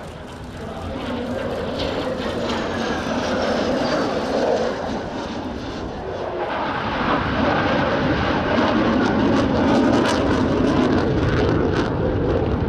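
Military aircraft flying past, a steady engine roar that dips briefly at the start and swells louder in the second half, with a faint falling whine a couple of seconds in. Scattered sharp cracks sound through the latter half.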